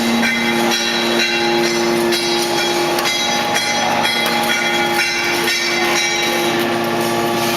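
Bead wire baler running: a steady machine hum in two low tones, with frequent metallic clicks and knocks over it.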